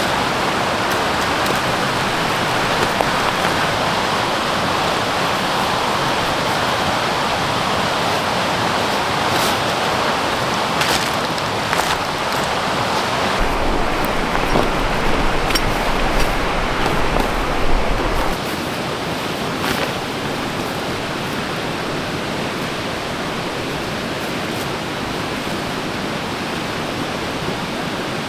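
Stream water rushing as a steady wash of noise, with a few brief clicks and, around the middle, a low rumble and some short knocks.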